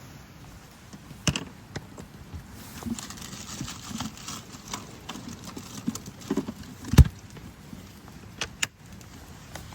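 A scattered series of knocks and clicks with light rustling between them, the loudest knock about seven seconds in and two quick clicks shortly after.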